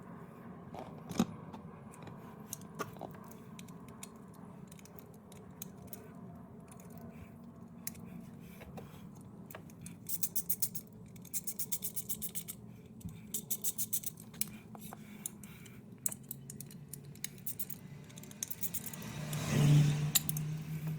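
Socket ratchet clicking in quick runs, about ten clicks a second, as bolts are worked on the window regulator and motor assembly, among scattered tool and metal handling knocks. Near the end comes a louder scraping swell over a low hum.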